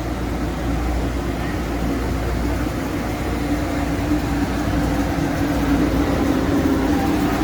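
Amtrak Southwest Chief passenger train running with a steady rumble, and a low hum that grows louder about halfway through.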